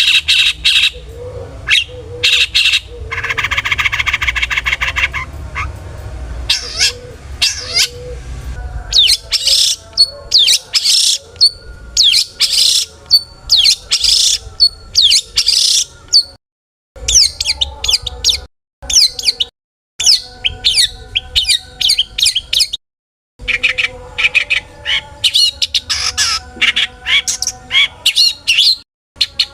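Long-tailed shrike (cendet) singing hard: a rapid stream of sharp, high calls and chatters, with a fast buzzy rattle a few seconds in. The song is broken by several sudden brief silences in the second half.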